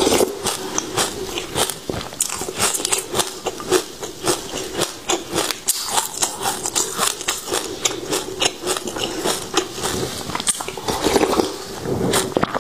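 Passion fruit seeds being chewed and crunched, a dense run of quick crisp crackles as the seeds break between the teeth.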